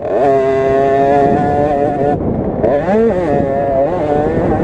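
A KTM SX50's 50cc two-stroke engine revving hard. The pitch climbs quickly at the start and holds steady for about two seconds. Around the three-second mark it drops and picks up again as the throttle is rolled off and back on, then it holds high again.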